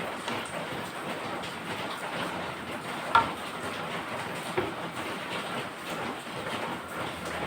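Steady rain pattering, with a sharp click about three seconds in and a smaller one a second and a half later.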